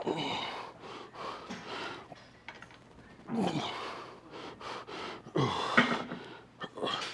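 A man breathing hard and letting out strained grunts of effort while lifting weights in a drop set. There are about four short grunts a second or two apart, each falling in pitch, with heavy breaths between them.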